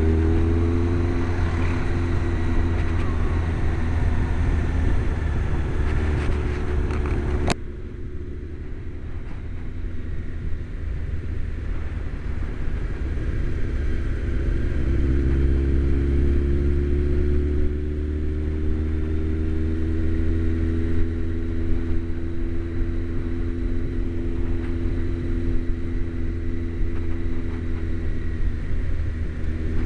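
Motorcycle engine heard from inside the rider's helmet, running under way with wind noise over it. About seven seconds in the sound drops abruptly and thins out; from about halfway the engine note comes back and climbs slowly as the bike pulls.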